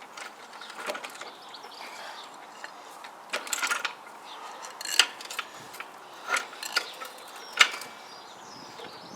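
Scattered metal clicks and clunks, with a short rattling stretch about three and a half seconds in, from a motorcycle engine on a trolley jack being worked up into the bike's frame as it catches on the frame.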